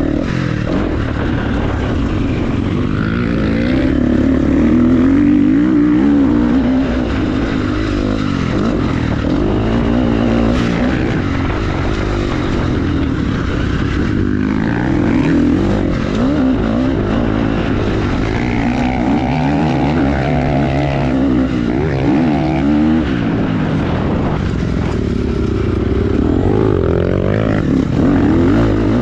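Motorcycle engine running under way, its revs rising and falling continually with a steady rushing noise over it.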